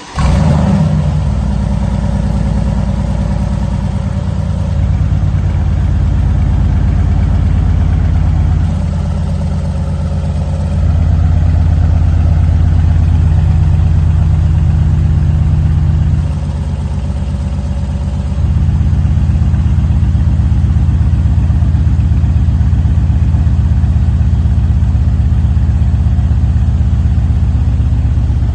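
Aston Martin Vanquish V12 with a custom-modified exhaust starting up with a brief flare of revs, then idling steadily. The idle steps quieter and louder a few times (down around 9 and 16 seconds in, back up around 11 and 18), fitting the exhaust flaps being switched between fully closed and fully open.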